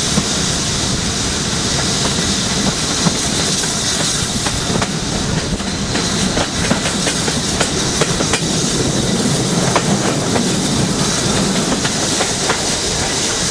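A train running on the line, its wheels clicking over the rail joints in a quick irregular clatter over a steady rumble.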